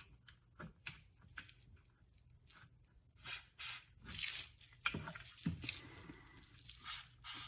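Several short hisses from an aerosol can of spray lubricant, among small clicks and rustles of handling.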